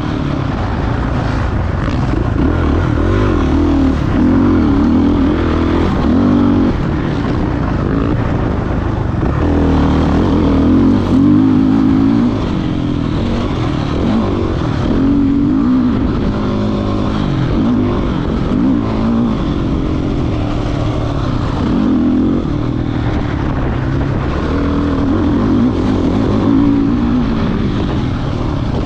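Motocross dirt bike engine revving up and down again and again as it accelerates and backs off around the track, its pitch rising and falling every second or two.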